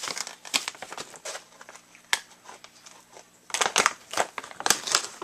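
Crinkling of the packaging of freeze-dried chicken treats being handled, a run of sharp crackles that gets busier and louder about three and a half seconds in.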